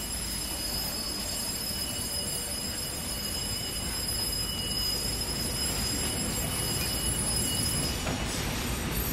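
Interior of a JNR Yokosuka Line electric train car in motion: a steady rumble of wheels and running gear on the track, a little louder in the second half.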